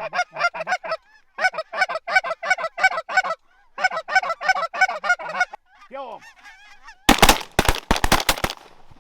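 Rapid repeated waterfowl calling in three bursts, a few calls a second, with fainter gliding calls after, then a fast volley of shotgun shots from several guns about seven seconds in.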